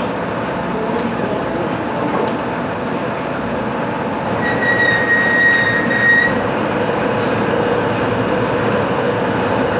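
Metalworking machine tool running steadily during machining, with a constant hum and a high squeal that rises about halfway through, holds for a little under two seconds, then stops.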